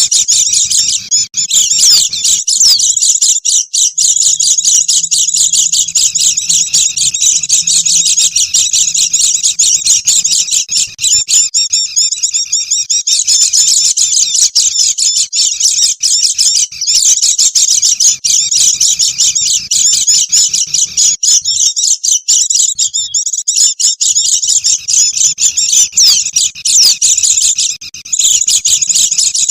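A flock of white-eyes (pleci) chattering busily: dense, overlapping high chirps and trills without a break, a recorded lure call for attracting wild birds.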